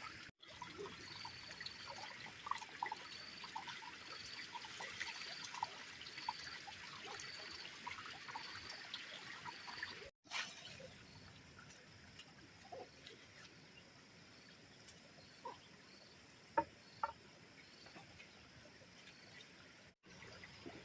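Water trickling and running, with a faint high chirp repeating a little more than once a second in the first half. The second half is quieter, with three short knocks near its end, the middle one loudest.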